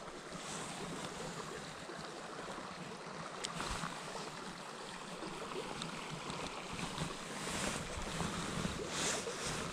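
Steady rush of flowing stream water, with a sharp click about three and a half seconds in and a swell of louder noise near the end.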